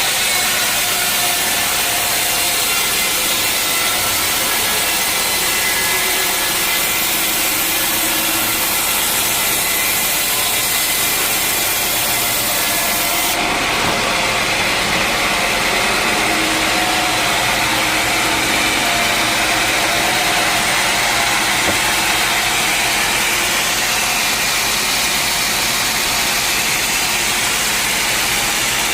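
Band sawmill running steadily through a teak log, the blade cutting wood over the machine's engine. The sound shifts abruptly about 13 seconds in.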